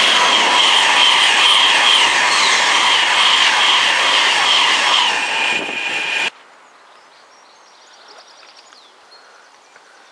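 Virgin Pendolino Class 390 electric train passing close by, a loud rush of wheel and air noise with a steady high whine, cut off abruptly about six seconds in. Only faint background sound follows.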